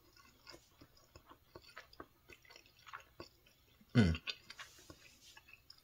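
A person chewing a bite of Salisbury steak and rice close to the microphone: soft, irregular wet clicks and smacks. One brief, louder sound comes about four seconds in.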